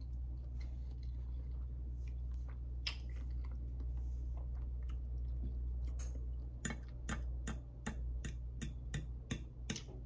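Close-miked chewing of a mouthful of food, with wet mouth clicks that come in a quick run of about four a second in the last third, over a steady low hum.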